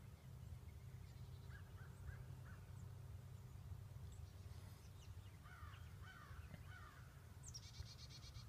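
Faint wild bird calls over a low steady rumble: a few short calls about a second and a half in, a busier cluster of calls a little past the middle, and a rapid high-pitched trill near the end.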